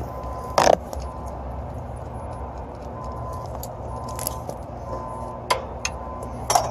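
Scattered metallic clinks and knocks from HVAC tools and brass hose fittings being handled and fitted, with a sharp knock about half a second in and another near the end, over a steady low hum.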